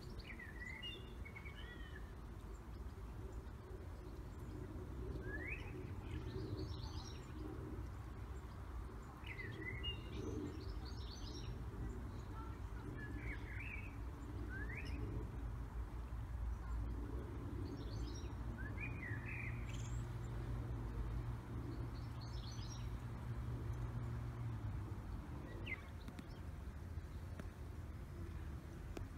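Birds chirping in short calls and quick rising notes every couple of seconds, over a steady low background rumble.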